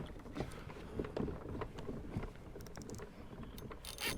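Faint scattered knocks and bumps from a fishing kayak and its gear on the water, with light water noise.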